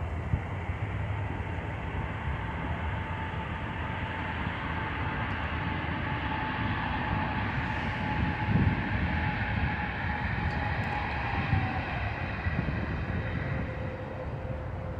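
Jet airliner engines running at close range: a steady rumble with a thin whine that slowly falls in pitch as the aircraft passes.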